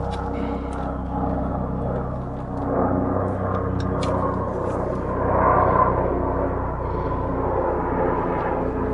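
A vehicle engine running steadily, with a few light clicks and knocks over it.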